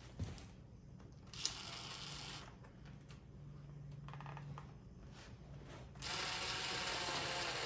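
Power drill driving small screws to start them into a saddle seat, in short runs, the longest and loudest near the end.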